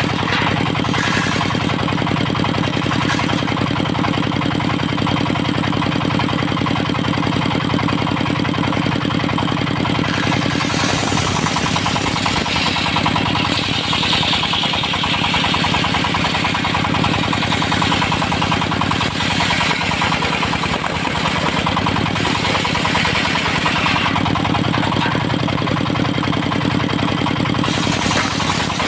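Diesel engine of a mobile circular-saw rig running steadily. From about eleven seconds until near the end, a higher, rougher hiss rides over the engine as the saw blade works into a teak log.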